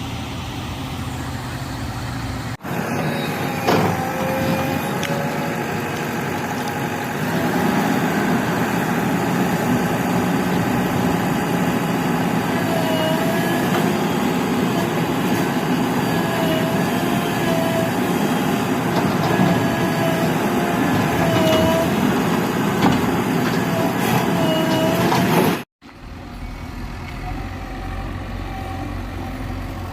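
Diesel engine of a backhoe loader running steadily, with short high squeaks recurring over it. The sound breaks off abruptly twice at edits.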